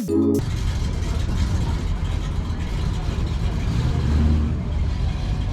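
A car's engine running steadily, with people talking in the background.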